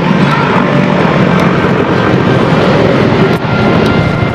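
Aircraft engine noise, loud and steady, dipping briefly about three and a half seconds in.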